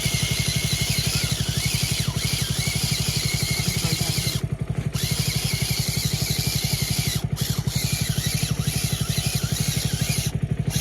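An engine running steadily with a fast, even, low thudding beat.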